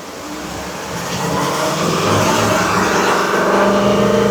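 Ford 6.2-litre gasoline V8 revving up over about two seconds and then held steady at around 2,000–2,500 rpm for an exhaust back-pressure test. The test shows a clogged catalytic converter.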